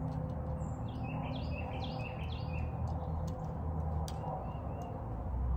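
Songbirds chirping, a quick run of short high notes, over a steady low background rumble, with one sharp click about four seconds in.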